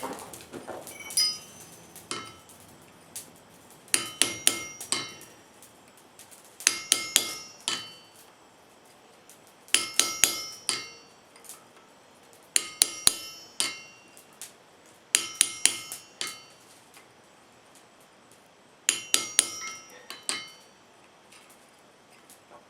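A hammer tapping a chisel into wrought iron to cut in detail, with bright ringing metal strikes. The strikes come in six quick bursts of three to five blows each, spaced about three seconds apart, with quiet pauses between them.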